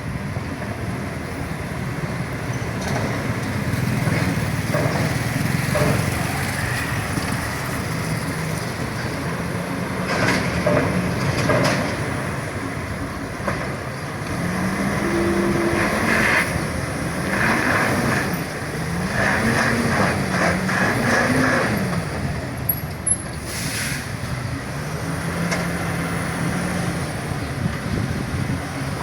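Heavy truck diesel engines running and revving, the engine pitch rising and falling several times in the middle stretch. A short hiss comes near the end.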